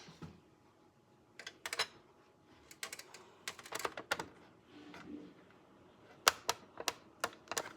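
Irregular sharp clicks and taps of a small screwdriver and screws against plastic parts while the engine model is put together, about a dozen ticks scattered over several seconds.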